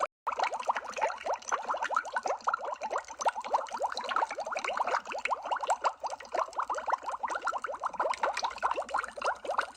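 Underwater bubbles sound effect: a dense stream of bubbles blipping, many short rising plips each second, with a brief break right at the start.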